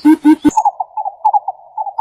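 Bird calls: a run of low, evenly repeated pitched notes, about four a second, that cuts off half a second in. A faster trill of higher notes, about eight a second, follows.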